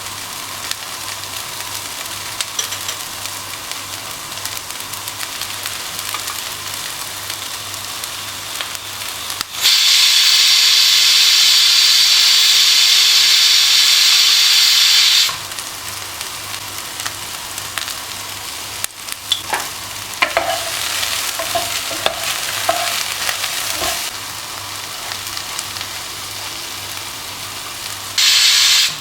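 Food frying and sizzling in a pan while being stirred, a steady hiss with a few light utensil taps. In the middle the hiss turns much louder for about six seconds, and again briefly near the end.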